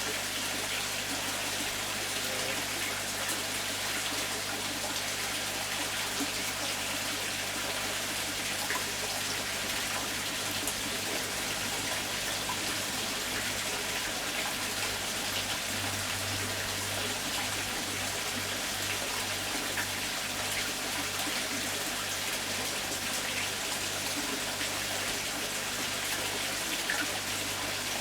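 Garden pond water running and splashing steadily, with a faint low hum underneath.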